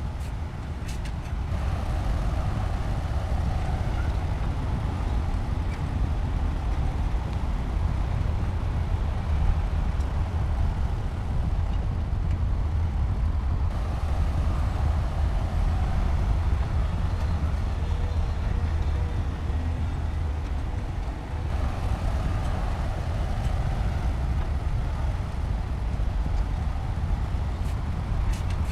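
Heavy diesel engine of construction machinery running steadily with a deep rumble, its sound shifting slightly about a second in and again about two-thirds of the way through.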